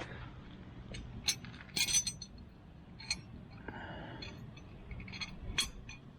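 Metal parts and tools clinking and clicking as a column shifter mechanism is handled and worked loose: several separate sharp clinks, the loudest pair about two seconds in.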